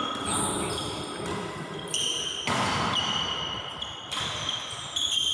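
Badminton rally on an indoor court: shoes squeak on the court floor, and there are a few sharp hits, about two and two and a half seconds in and again near the end.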